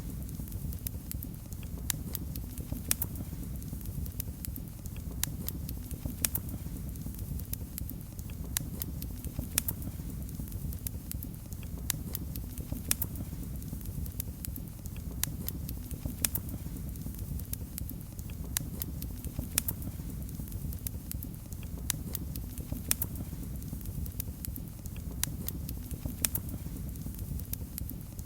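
Wood fire crackling in a fireplace: a steady low rumble from the flames, with sharp pops and crackles at irregular intervals.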